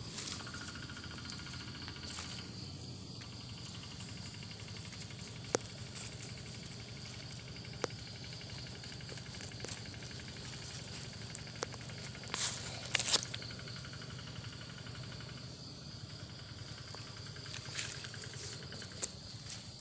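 Forest ambience: a steady high insect drone, with a few sharp snaps and a brief rustling burst about twelve seconds in.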